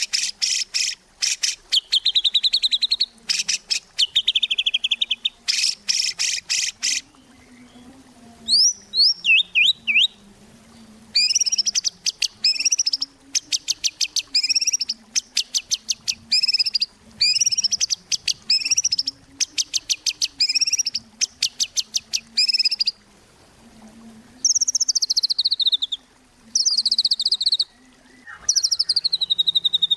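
White-rumped shama singing in full song: fast rattling trills at the start, then a swooping whistled phrase repeated about once a second, then falling slurred whistles near the end. A faint low steady hum runs underneath.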